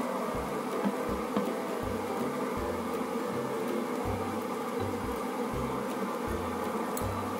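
Steady buzzing from a frying pan of chopped onions cooking on a glass-top electric hob, with two faint ticks about a second in.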